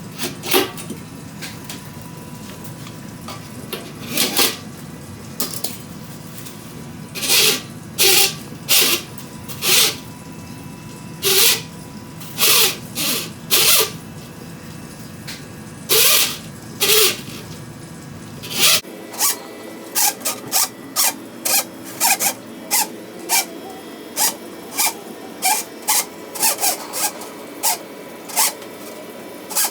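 Short rasping scrapes of tool work, irregular at first and then coming about twice a second, over a steady hum that stops about two-thirds of the way through.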